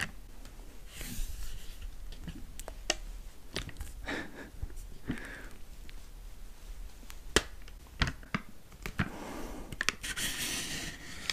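A person chewing food close to the microphone: scattered wet mouth clicks and smacks, with a longer soft rushing noise near the end.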